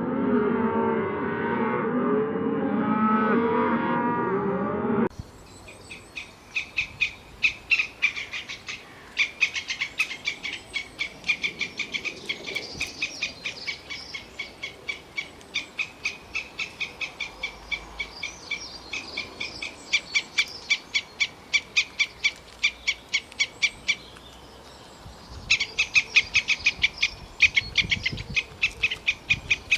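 Cattle mooing for about five seconds. After an abrupt cut comes a long series of rapid, short, high chirping calls, about three to four a second in runs with brief pauses.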